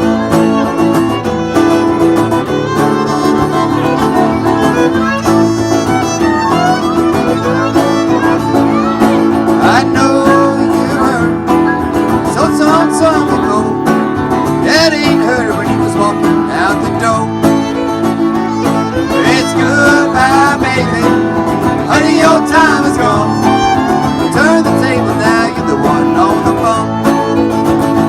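Old-time string band playing an upbeat instrumental intro, a fiddle carrying the melody over strummed guitar.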